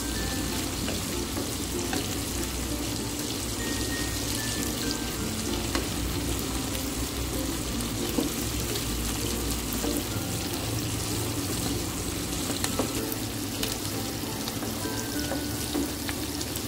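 Oil sizzling steadily in a wok as salted squid, tempeh, jengkol and shallots are stir-fried, with a wooden spatula now and then scraping and tapping against the pan.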